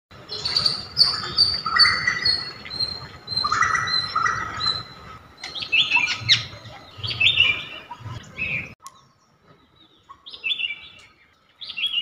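Birds chirping and twittering, dense for the first eight or nine seconds with a low rumble underneath, then thinning to a few scattered chirps.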